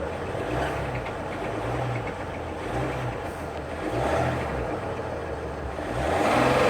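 Ram pickup truck engine running at a steady idle, its note swelling briefly about four seconds in and again near the end.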